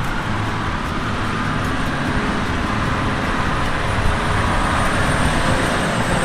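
Tractor engine running steadily, with a faint high whine above it.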